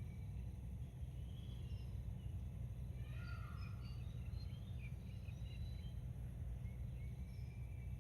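Small birds chirping and calling here and there, with a busier flurry of chirps in the middle, over a steady low rumble of outdoor ambience.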